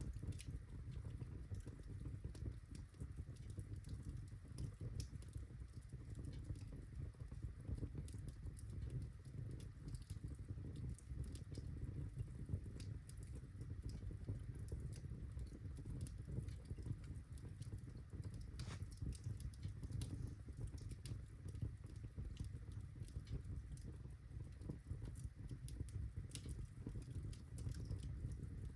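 Birchwood fire crackling in a fireplace: a steady low rumble of flames with scattered sharp pops and snaps, one louder pop about two-thirds of the way through.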